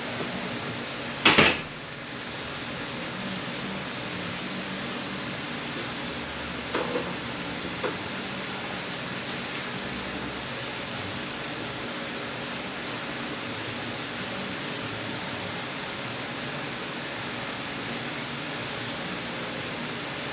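Steady fan-like hiss of the shop under a short, loud clatter of transmission parts or tools handled on the bench about a second in. Two light knocks follow around seven and eight seconds in.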